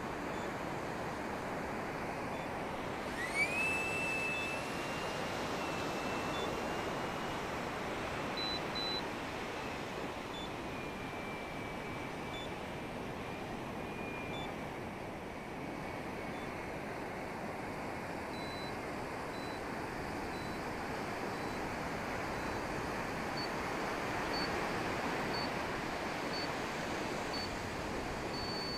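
Electric ducted fan of a 90mm EDF Hawk model jet: a whine rises about three seconds in, then holds and drifts slowly lower over a steady rush of noise. Short high beeps sound now and then, about once a second near the end.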